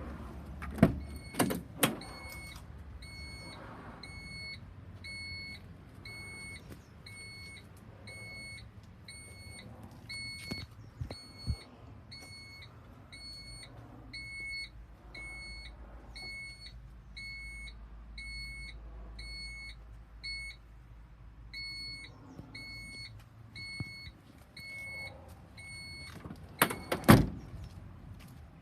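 Electronic warning beeper of an Isuzu Elf truck sounding a steady high beep, about three beeps every two seconds. Sharp thumps come just before the beeping starts and again after it stops, over a low hum.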